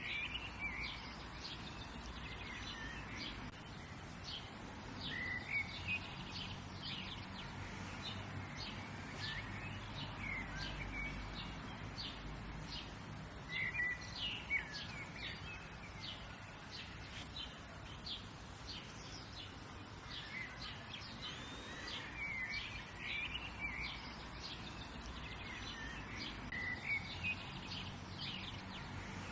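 Songbirds calling and singing in a dawn-chorus-like ambience: frequent short high chirps and brief warbled phrases from several birds, over a steady outdoor background hiss.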